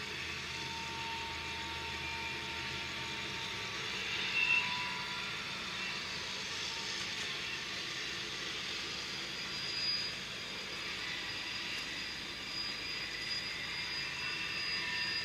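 CSX manifest freight train rolling past, a steady rail noise of the cars with thin high tones held over it.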